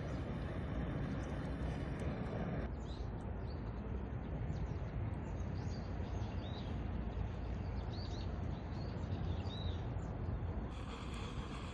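Outdoor ambience: a steady low rushing noise, with small birds chirping repeatedly in short high calls through the middle of the stretch.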